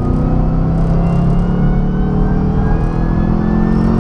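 Chevrolet Camaro ZL1's supercharged V8 accelerating, heard from inside the cabin: the engine note climbs steadily, with the supercharger's high whine rising above it. The whine is louder through a newly fitted cold air intake.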